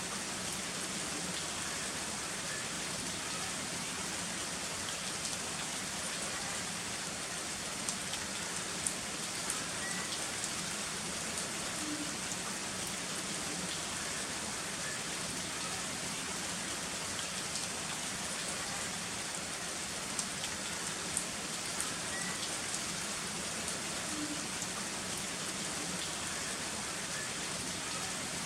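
Heavy rain falling steadily, an even hiss of rain with scattered sharper drop ticks.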